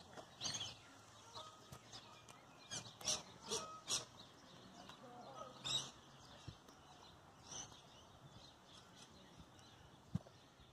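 Birds calling faintly in the open air: a scatter of short, sharp high calls, bunched about half a second in, around three to four seconds in and again near six seconds.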